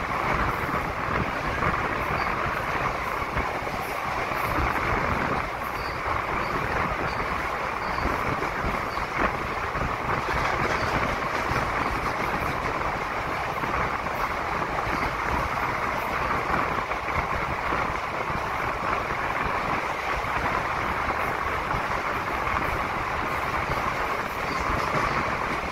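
Passenger train running through a rock tunnel, heard from its open doorway: a steady, loud noise of wheels on rails.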